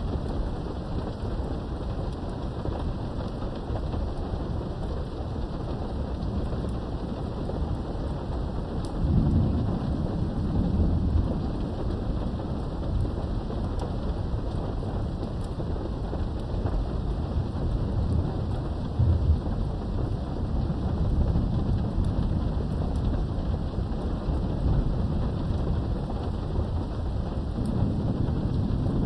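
Steady heavy rain with thunder rumbling low under it. The rumbles swell about a third of the way in, again about two thirds through, and near the end.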